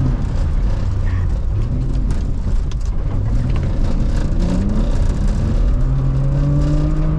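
BMW E36 325is straight-six engine revving hard. Its pitch is held high at first, falls and climbs several times, then rises again and holds high near redline towards the end.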